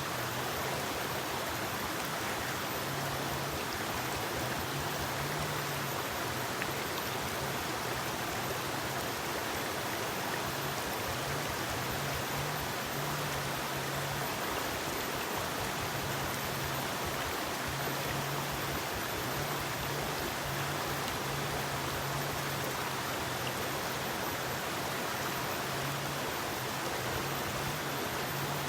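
Forest river flowing steadily over rocks, a continuous rushing of water. A faint low hum comes and goes under it.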